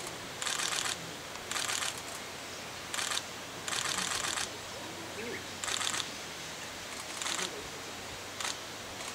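Camera shutter firing in rapid bursts of continuous shooting: seven short runs of fast clicks a second or so apart, some brief, some nearly a second long.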